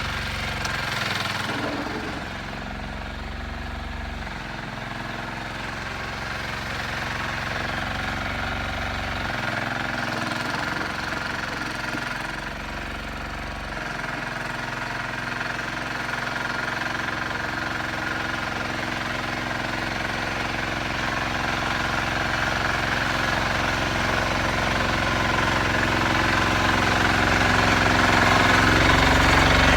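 Sears 8XL garden tractor engine running steadily while plowing snow, growing gradually louder toward the end.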